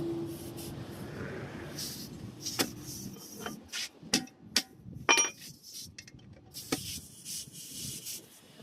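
Irregular knocks and clinks of hand tools being handled and set down, about half a dozen sharp strikes, one with a brief metallic ring about five seconds in.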